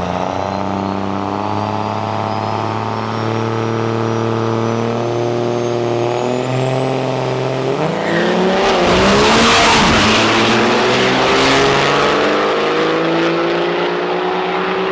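Turbo-diesel drag trucks running at the line, with a high whine that climbs steadily. About eight seconds in comes a loud surge as they launch and accelerate away down the strip, engine pitch rising.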